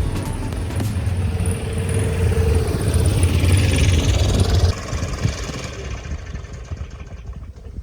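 Kawasaki KLE500 parallel-twin engine running with a Stihl backpack leaf blower blowing into its air intake, under a steady hiss that swells. About two-thirds of the way in the sound drops sharply and dies away, typical of the engine faltering as it tries to stall on the blower-fed air.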